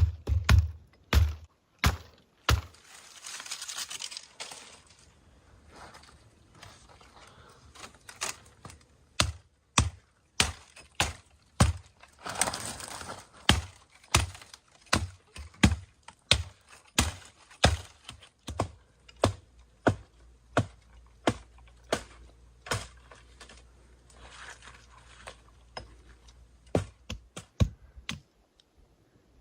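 Wood being chopped: a long series of sharp knocks, about one to two a second with a few short pauses, and a few brief stretches of rustling.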